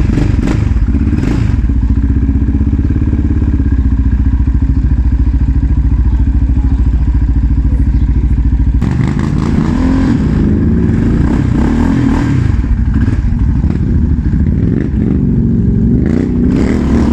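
Quad bike engine running at a steady speed, then from about halfway the engine note rises and falls as the throttle is worked while riding.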